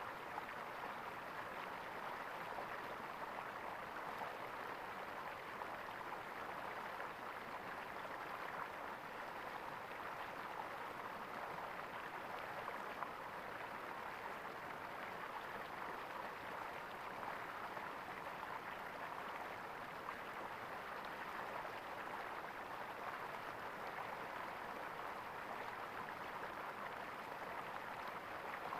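Stream water gurgling, a steady, even rush of flowing water with no breaks.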